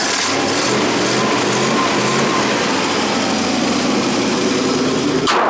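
Original Pontiac V8 in a 1956 GMC half-ton pickup idling steadily. Near the end a single sharp slam, the hood being shut, after which the engine sounds more muffled.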